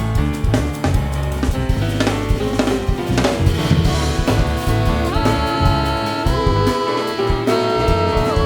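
Small jazz group playing, with busy drum kit work on snare and rims to the fore; from about five seconds in, a melody line of long held notes moves in steps over it.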